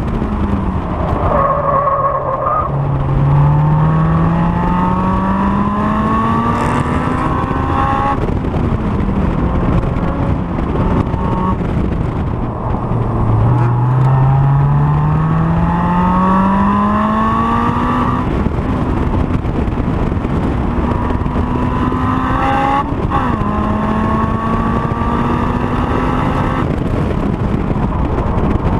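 Honda S2000's four-cylinder engine pulling hard through the revs on track, its pitch climbing steadily twice and breaking off sharply at a gear change or lift, then holding steadier with one more brief break near the end, over constant wind and road noise.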